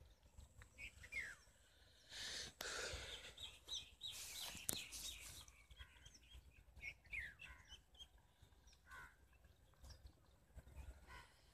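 Faint chirps of small birds, short calls scattered throughout. A stretch of noise about two seconds in lasts roughly three seconds and is the loudest part.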